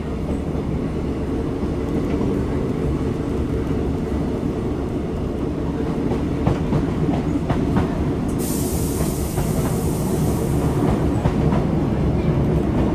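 Passenger train running, heard from inside the carriage: a steady low rumble with the clickety-clack of wheels over rail joints. About eight seconds in, a high hiss comes in sharply and fades away over a few seconds.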